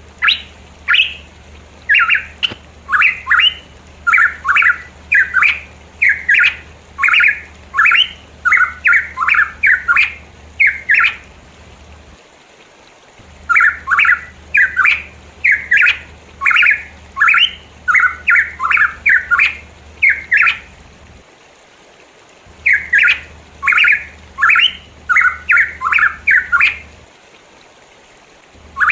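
Pitohui calling: loud, short, harsh notes repeated about twice a second in three long bouts, with brief pauses between the bouts.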